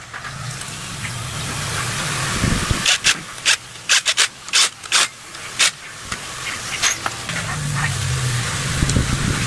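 A steady spraying hiss over a low motor hum, as in cleaning work on the engine parts. A run of sharp clicks and knocks comes in the middle, and the hum drops out there and returns near the end.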